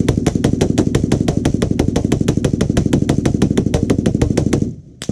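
Fully automatic gunfire: one long burst at about seven shots a second, lasting nearly five seconds, then a short burst of a few shots near the end.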